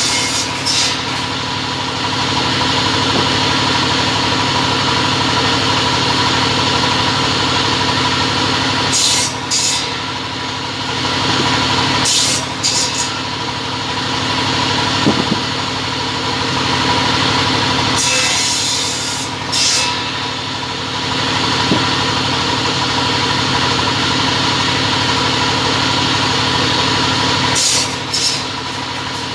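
Two-head (double-end) cutting machine running steadily with a level hum, broken every several seconds by short, high hissing bursts.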